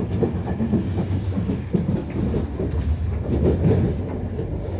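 Enterprise passenger train running at speed, heard from inside the carriage: a steady rumble of wheels on rail with many short, irregular knocks.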